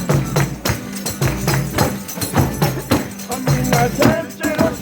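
Folia de Reis ensemble playing: tambourine strikes in a steady rhythm over a sustained low accompaniment, with voices starting to come in near the end.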